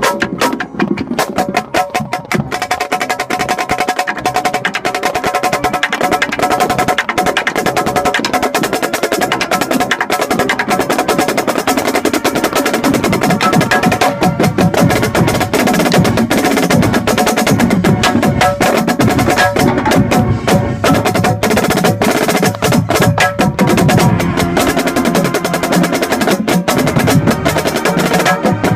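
Marching band playing, heard close to the snare line: rapid snare drum strokes and rolls over the band's sustained brass and wind chords.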